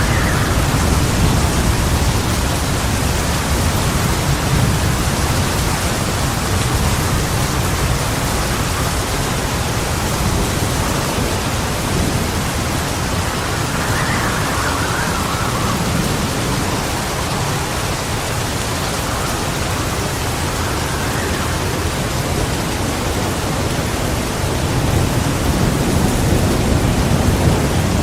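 Heavy rain hissing steadily, with a deep thunder rumble rolling underneath that swells again near the end.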